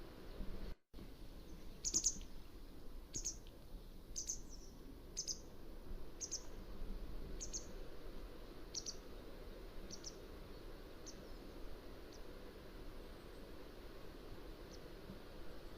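Mountain wagtail calling: a series of short, sharp, high-pitched notes about one a second, growing fainter along the run, over a steady low background hiss. The sound cuts out for a split second near the start.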